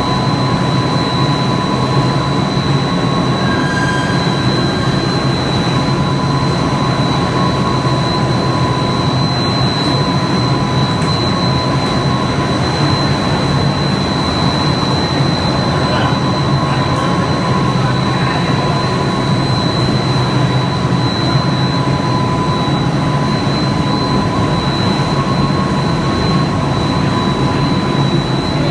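Machinery of a snack-food pellet production line running: a loud, steady mechanical drone with a low hum and two constant high whines.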